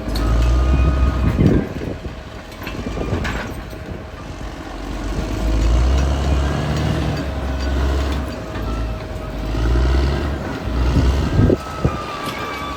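Caterpillar D6R XL bulldozer at work, its diesel engine swelling and easing as the load comes on and off, over a steady whine. Two sharp clanks, one early and one near the end.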